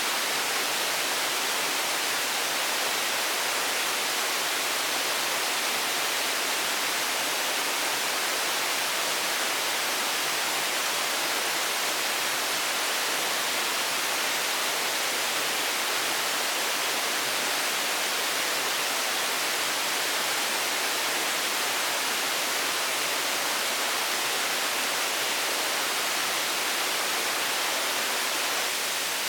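Steady, even hiss with no separate events or rhythm, strongest in the high range.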